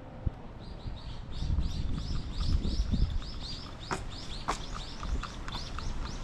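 A bird calling a fast series of repeated high chirps, about four a second, beginning just after the start. A low wind rumble on the microphone is strongest in the first half, and two sharp clicks come about four seconds in.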